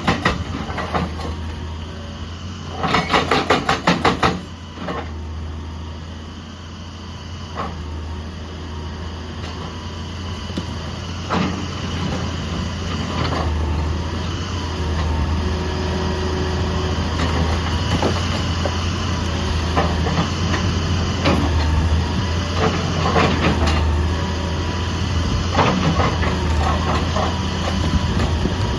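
Heavy diesel excavator engine running steadily, with scattered sharp knocks and clanks. About three seconds in, a burst of rapid knocking, roughly eight strikes a second, lasts a little over a second.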